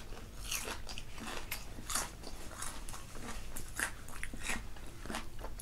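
Close-up crunching and chewing of KFC Original Recipe fried chicken, heard as an irregular run of short, crisp crackles.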